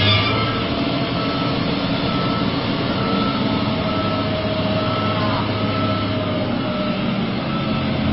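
Dump truck engine running steadily under a regular series of high reversing-alarm beeps, with a faint held whine in the second half.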